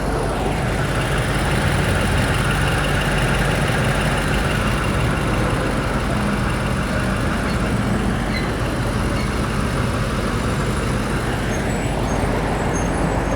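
BMW X5 M Competition's twin-turbo V8 idling steadily, a low, even hum with no change in level.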